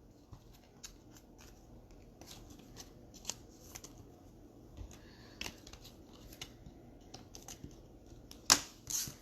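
Baseball trading cards being slid and flipped through by hand: a run of faint, irregular light clicks and swishes, with one sharper snap near the end.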